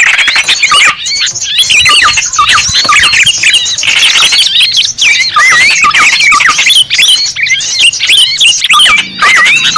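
Many small birds chirping and twittering at once in a dense, loud, unbroken chorus of quick, overlapping, up-and-down chirps: a bird-lure recording made to draw in small birds.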